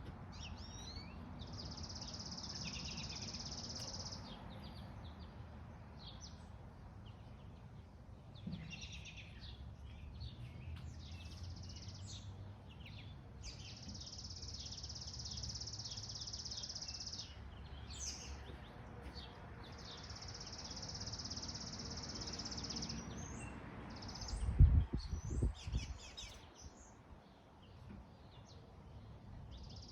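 Songbirds singing: one bird repeats a long, even, high trill of two to three seconds every several seconds, with shorter chirps from other birds between, over a low rumble. A few loud low thumps about 25 seconds in are the loudest sound.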